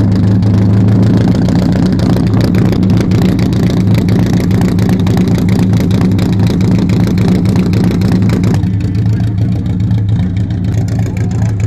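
Large vintage car engine with exposed overhead-cam valve gear running steadily at a low, even speed through a long straight exhaust pipe. About eight and a half seconds in the sound turns duller while the low engine note carries on.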